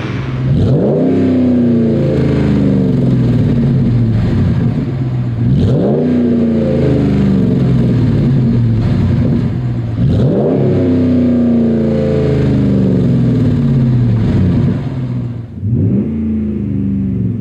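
5.7L Hemi V8 in a RAM 1500 through a Flowmaster FlowFX straight-through cat-back exhaust, revved four times. Each time the revs rise sharply and then fall away over several seconds.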